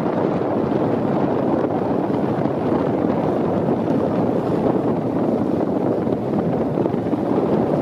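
Steady rushing wind noise buffeting the microphone, even and unbroken, with no distinct knocks or engine tones.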